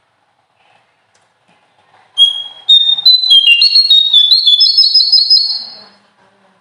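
A small songbird singing a loud phrase of clear, high whistled notes that step up and down in pitch and quicken into a rapid rolling trill. It starts about two seconds in and stops about four seconds later.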